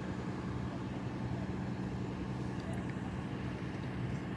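A steady low engine hum at an even level, with a few faint ticks about two and a half to three seconds in.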